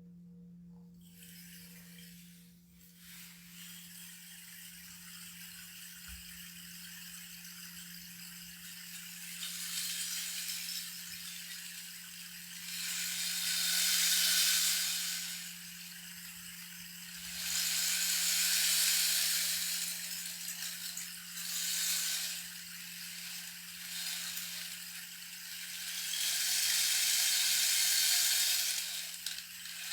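A hand-played rattle instrument sounding as a hissing rattle that swells and fades in slow waves, several times over, above a steady low hum.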